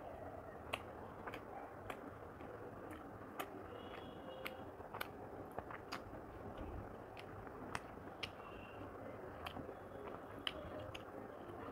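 Close-miked chewing and mouth sounds of a person eating rice and chicken curry by hand, with irregular sharp clicks one or two a second over a faint steady hiss.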